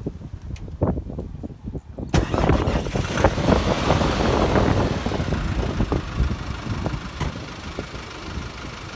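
Nissan Navara diesel engine firing up about two seconds in with a sudden loud rush. It then eases back to a steadier, quieter run.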